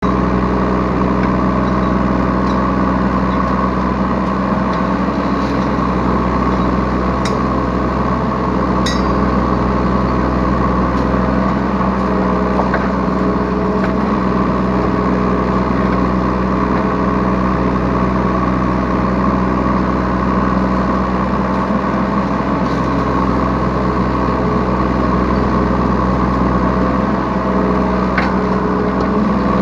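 Yanmar B3 Sigma 3-ton mini excavator's diesel engine running steadily, heard from the operator's seat, with a few light clicks.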